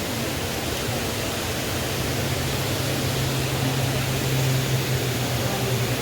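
Steady rushing of a waterfall and river, with a low steady hum underneath that grows stronger through the middle.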